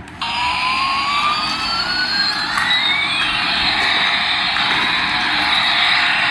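Jet-engine sound: a steady hiss with whining tones that glide up and down, crossing each other, as in a toy airliner's jet sound effect.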